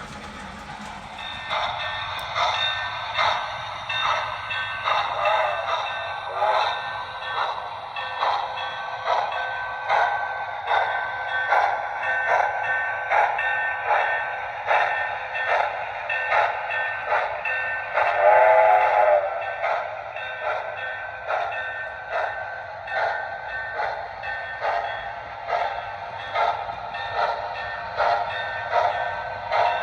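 O scale brass steam locomotive's TMCC sound system playing steam chuffs in a steady rhythm, starting about a second and a half in, with a short whistle blast about two-thirds of the way through. The locomotive's electronics are working again after its loose radio and sound boards were reseated.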